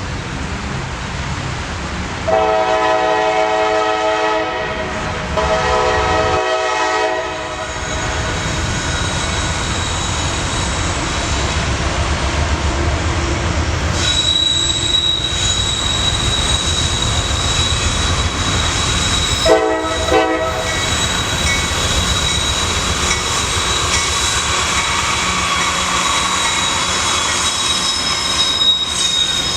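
A freight train's locomotive horn sounds two long blasts a couple of seconds in and a short blast about twenty seconds in, over the steady rolling noise of the train passing on the rails. From about halfway a high, steady wheel squeal joins in.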